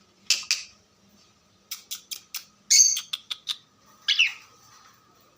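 Pet cockatiel squawking and chirping: two short calls at the start, a quick run of sharp chirps with one louder squawk in the middle, and a final squawk about four seconds in.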